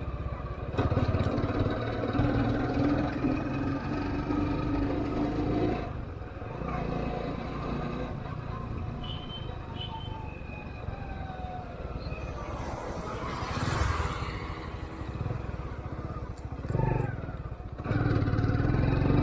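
Bajaj CT 100 motorcycle's small single-cylinder four-stroke engine running while it is ridden, its pitch shifting a few times with the throttle. A brief rushing noise comes about two-thirds of the way through.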